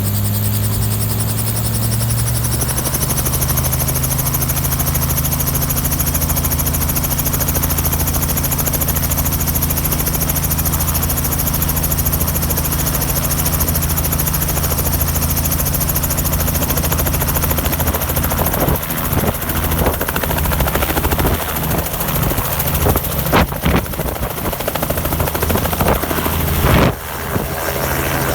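Helicopter running on the ground, its rotor beat steady and stepping up slightly in pitch in the first few seconds as it powers up. From about two-thirds of the way in, uneven gusty thumps and buffets break in as it lifts off.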